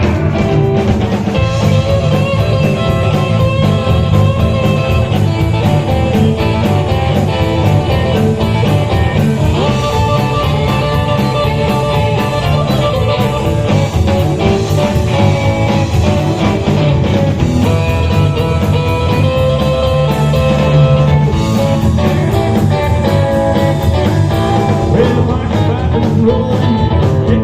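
Instrumental break of a rock and roll song: a guitar plays lead lines over a steady bass and drum beat, with no singing.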